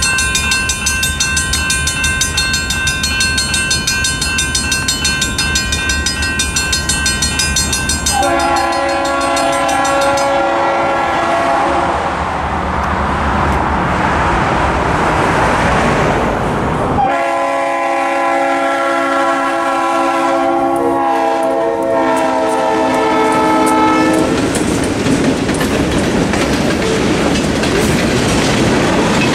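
Railroad crossing bells, one mechanical and one electronic, ringing at the start. A freight locomotive's multi-note air horn then sounds twice, about eight seconds in and again about seventeen seconds in, the second blast longer. Between and after the blasts the train passes with the rumble and clatter of freight cars over the crossing.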